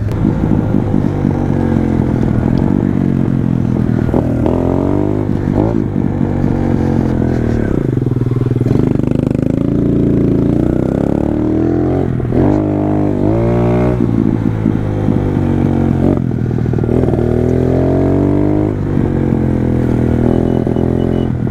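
Pit bike engine running under riding load, revving up and easing off several times as the bike accelerates, shifts and slows.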